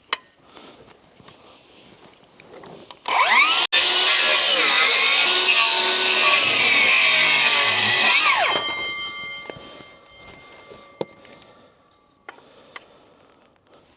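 Circular saw starting about three seconds in and cutting through wood for about five seconds. It is then released and winds down, a falling whine that fades out over a few seconds.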